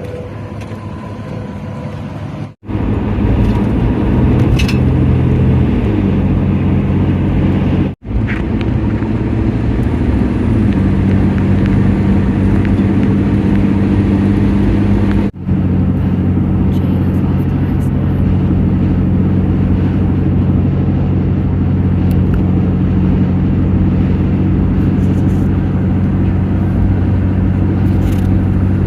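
Motor vehicle engine and road noise while driving at a steady speed. The engine note drops twice, about 6 and 10 seconds in. Three brief cuts to silence split it into separate stretches.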